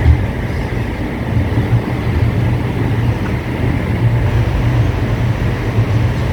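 Passenger train running, a steady low rumble with a brief jolt just after the start.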